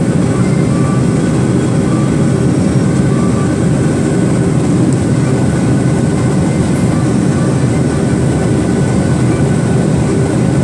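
Steady cabin noise of a Boeing 737-800 in flight, its CFM56 jet engines running steadily under the dense rush of air past the fuselage, with a few faint steady tones.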